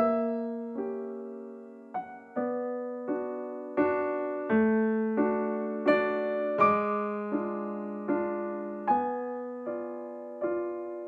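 Background piano music: soft chords and notes struck about every three-quarters of a second, each ringing and fading away.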